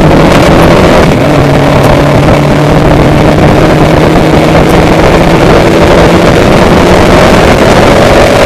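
Vehicle engine running steadily at speed, its pitch dipping slightly and rising again near the end, with heavy wind buffeting on the microphone.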